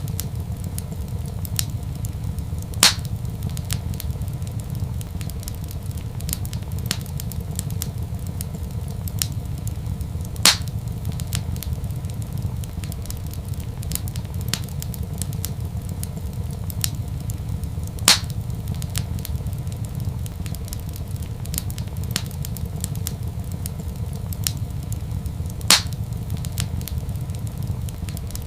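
Wood fire crackling in a fireplace: frequent small crackles over a steady low rumble, with four louder pops spaced evenly through the stretch.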